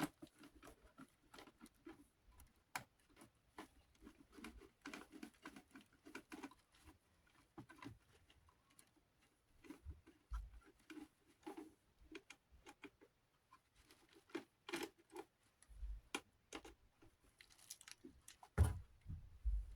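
Scattered light clicks and taps of small desk-fan parts being handled and fitted as the motor cover goes back on, with one louder knock near the end.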